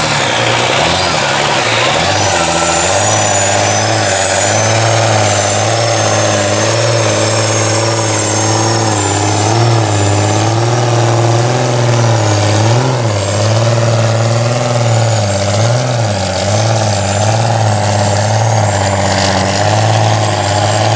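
An engine running close by at a steady, fairly low speed, its pitch wavering slightly up and down throughout, with small dips in speed.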